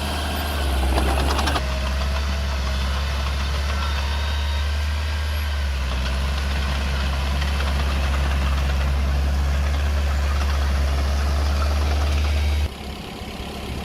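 Small Komatsu bulldozer's diesel engine running with a steady low rumble. It drops away abruptly near the end.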